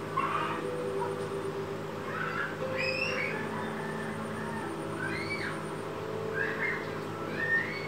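Birds calling: a scattered series of short chirps, each rising and falling in pitch, over a steady low mechanical hum.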